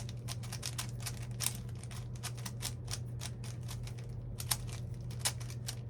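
Plastic puzzle cube being turned rapidly by hand: quick, irregular clacking of the layers, several clicks a second, over a steady low hum.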